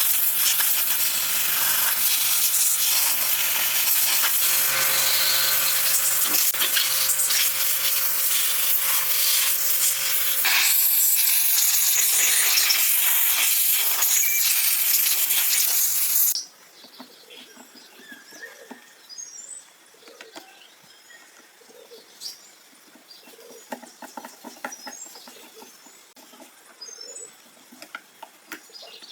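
Loud steady hissing with a low hum under it, which stops about ten seconds in and briefly returns. The whole noise cuts off suddenly about 16 seconds in, leaving quiet with faint high bird chirps and small clicks.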